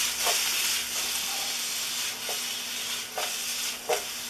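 Julienned red and green bell peppers sizzling as they sauté in oil in an aluminium frying pan over a gas flame: a steady hiss broken by a few short knocks.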